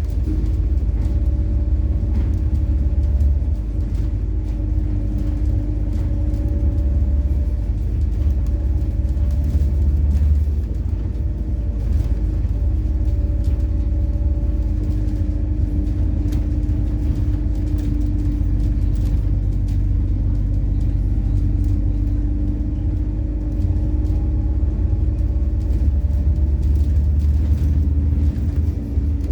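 Methane-fuelled MAZ-103 city bus on the move, heard from inside: low road and engine rumble with a steady engine hum whose pitch drifts slowly up and down as the bus speeds up and slows.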